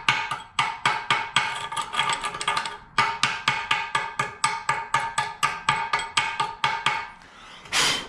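Hammer striking steel, about three to four blows a second, each blow ringing at the same metallic pitches. The strikes pause briefly about three seconds in and stop about seven seconds in, followed by a short burst of noise just before the end.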